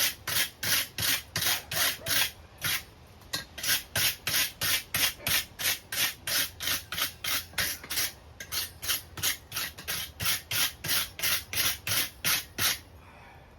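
A hand tool scraping over a freshly forge-welded steel chain link to clean it up, in quick back-and-forth strokes about three a second. There are two brief pauses, and the strokes stop just before the end.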